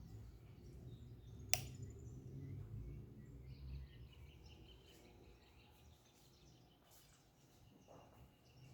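Wall fan's low motor hum, with one sharp click about a second and a half in; the hum fades away over the next few seconds, leaving faint high chirps.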